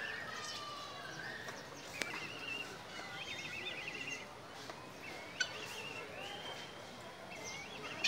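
Birds chirping and trilling over and over, with a sharp click about two seconds in and another a little past five seconds.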